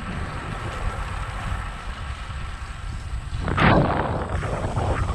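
Wind buffeting the camera microphone on a moving bicycle: a steady low rumble, swelling into a louder gust about three and a half seconds in.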